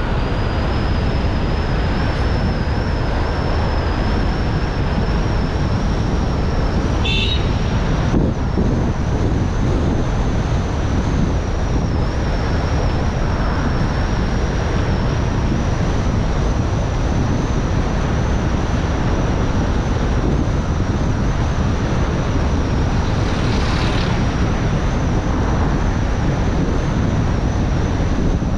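A car driving steadily, with constant engine and road noise and a faint high whine over it. A brief high sound comes about seven seconds in, and another shorter one near the end.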